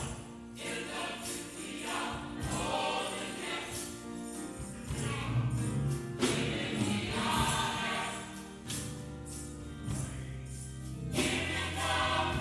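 Gospel choir singing, with organ or keyboard, a tambourine jingling on the beat and bass underneath.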